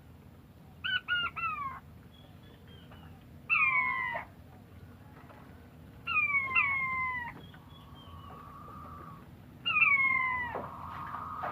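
An animal giving short, high, mew-like calls that slide downward in pitch. It calls several times with pauses in between, and the first call is a quick run of three notes.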